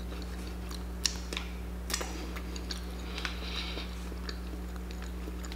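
A person chewing a mouthful of food close to the microphone: small wet mouth clicks and soft crackles at uneven intervals, the largest about one and two seconds in. A steady low electrical hum runs underneath.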